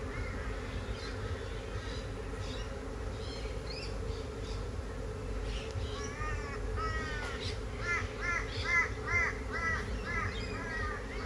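Honeybees humming steadily around an opened hive box. Over the hum, about halfway through, a bird starts a quick run of harsh, repeated caw-like calls, about three a second.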